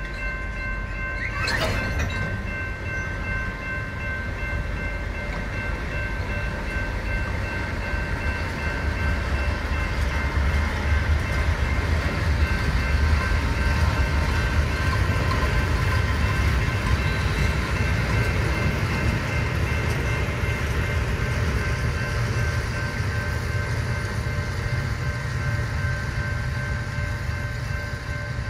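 Israel Railways freight train of covered hopper wagons rolling past with a steady low rumble, loudest about halfway through and easing as the last wagons move away. A set of steady high ringing tones sounds over it throughout, with a brief sharp sound about two seconds in.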